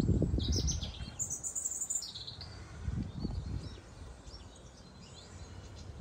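A small songbird singing: a quick run of high chirps and trills in the first two seconds, then fainter, scattered high calls.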